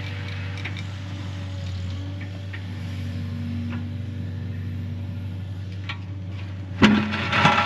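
Excavator engine running at a steady hum with faint scattered ticks. Near the end, a sudden loud crunching and scraping as the bucket digs into the ground.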